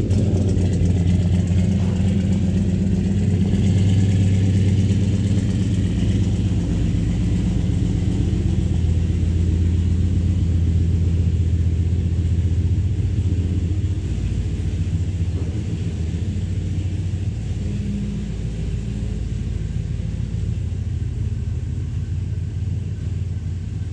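Late-model V8 engine idling steadily, its exhaust giving a low, even rumble with the muffler refitted after a muffler delete.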